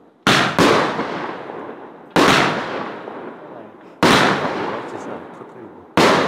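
Consumer firework compact (cake) firing aerial shots that burst overhead: five sharp bangs, two in quick succession at the start and then one about every two seconds, each trailing off in a long echoing rumble.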